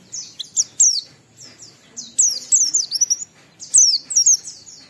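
Pleci (white-eye) singing in three quick bursts of high chirps, each note falling sharply in pitch, about a second and a half apart.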